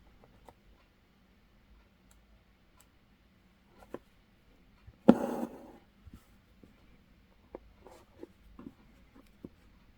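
Hand embroidery: a needle pierces stretched fabric with faint ticks, and about five seconds in a strand of embroidery thread is drawn through the cloth with one short scratchy rasp.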